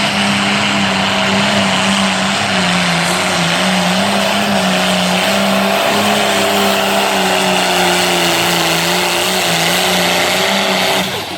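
Turbocharged pulling tractor's engine running hard under load while pulling the sled, its pitch wavering slightly; it stops abruptly near the end.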